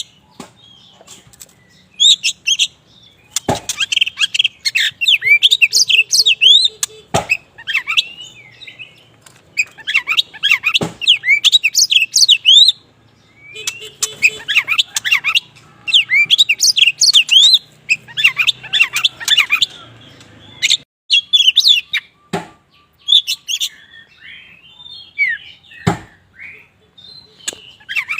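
Black-plumaged Oriental magpie-robin (kacer wulung) in full song: phrases of fast, varied high chirps and whistles a few seconds long, with short pauses between. Several sharp clicks are scattered through the song.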